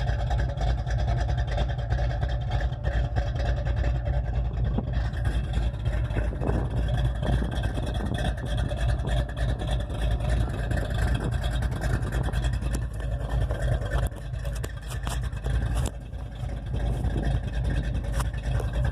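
355 small-block Chevrolet V8 with a hydraulic roller cam, idling steadily through long-tube headers and straight dual pipes into turbo mufflers dumped at the axle.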